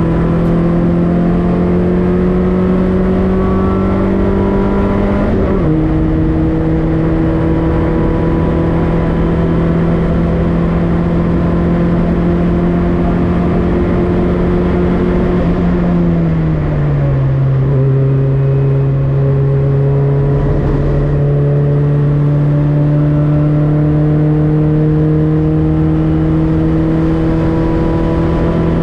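Citroën Saxo race car's four-cylinder engine under power, the revs climbing and then dropping sharply at a gear change about five seconds in. Around sixteen seconds in the revs fall away over about a second, then build slowly again.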